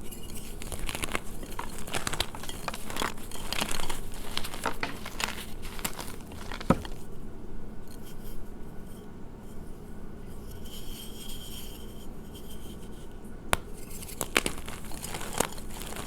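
Blocks of gym chalk crushed by hand, making dense crunching and crackling for about the first seven seconds. A sharper snap comes near the middle, the crunching thins out for several seconds, then picks up again near the end.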